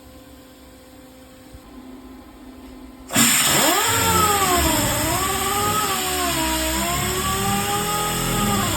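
A power sander starts up about three seconds in and runs on the car's sheet-metal body panel. Its whine dips and rises in pitch unevenly as it bears on the metal.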